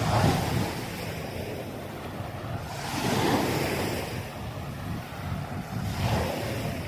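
Sea waves washing onto a beach, with wind rumbling on the microphone; the wash swells at the start and again about three seconds in.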